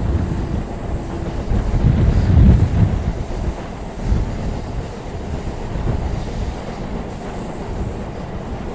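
Electric multiple-unit local train running through a sharp curve, heard from its open doorway: a steady rumble of wheels on rail, loudest about two to three seconds in.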